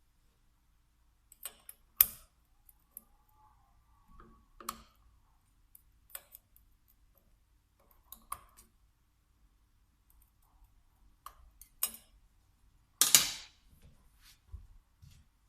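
Scattered clicks and light knocks of tools and small parts being handled while a VE diesel injection pump is taken apart, with one longer, louder clatter near the end.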